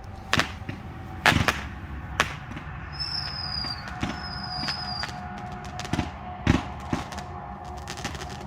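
Fireworks going off: a string of sharp bangs, the loudest about a second in and a cluster of others near the end, with two short high whistles falling in pitch in the middle.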